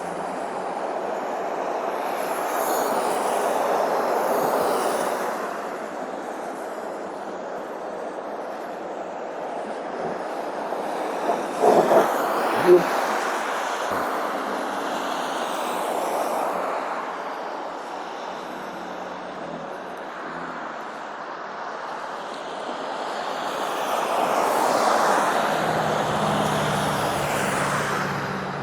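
Highway traffic: vehicles pass one after another, their tyre and road noise swelling and fading in waves. A few sharp knocks come about twelve seconds in, and a low engine hum rises near the end.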